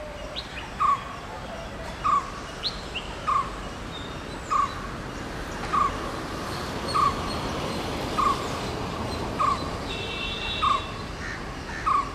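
A bird repeating one short call about once a second, ten times over, while other birds chirp faintly in the background.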